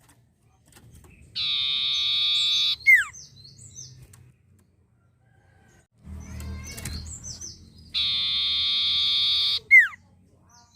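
Common iora (sirtu or cipoh) singing: two long, loud, level whistles of about a second and a half each, each ending in a quick falling slur, with short high chirps between them.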